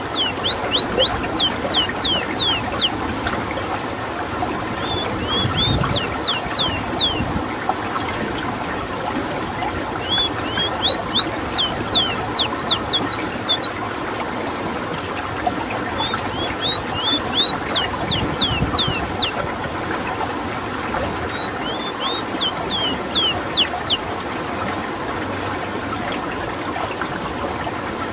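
Ruddy-breasted seedeater (rowti) singing its rolling song. About five phrases repeat a few seconds apart; each is a quick run of high notes that sweep downward and speed up, over a steady background hiss.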